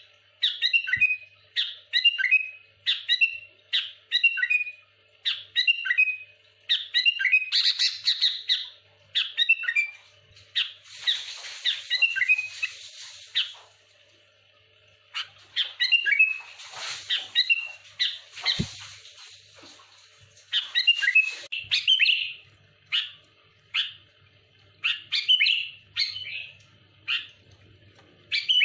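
Sooty-headed bulbul singing loud, busy song: short bright phrases of quick descending notes about once a second, broken by a few longer scratchy, chattering stretches in the middle.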